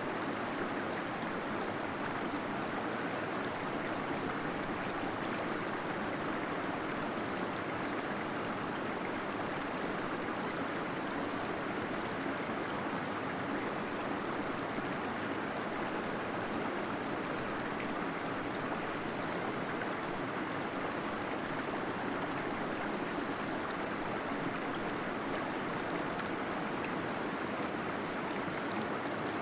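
Small waterfall flowing steadily, an even rush of falling water with gurgling.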